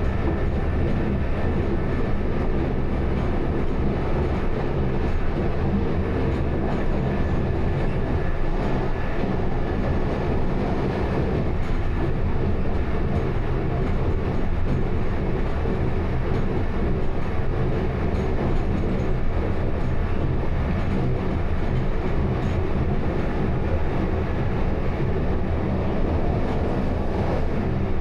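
Train running steadily on its line: a continuous low rumble with faint steady tones above it.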